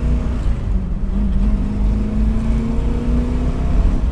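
Chevy small-block V8 of a 1967 Nova driving at road speed, a low, steady exhaust note whose pitch rises slightly in the second half.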